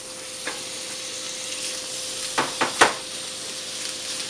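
Thick-sliced onion sizzling as it fries in hot cooking oil in a pan, a steady hiss. A little past halfway come three quick knocks, a utensil striking the pan.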